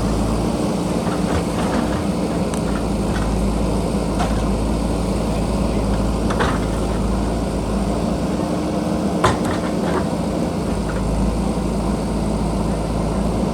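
JCB backhoe loader's diesel engine running steadily, with scattered sharp knocks, the loudest about nine seconds in.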